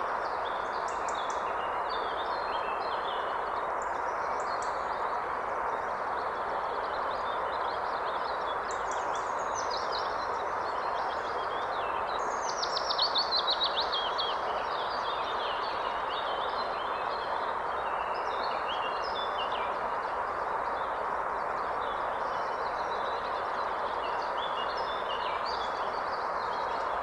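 Steady rushing of a forest river, with several songbirds singing and chirping over it. About halfway through, one bird gives a louder, rapid run of notes that falls in pitch.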